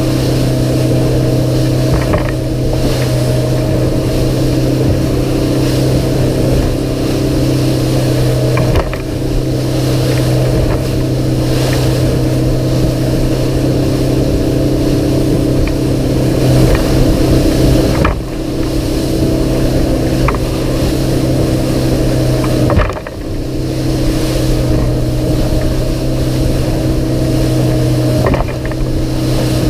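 A Sea Pro 228 Bay boat's outboard engine runs at a steady pitch as the boat crosses a chop, with water rushing along the hull. The drone breaks briefly a few times as the hull meets waves.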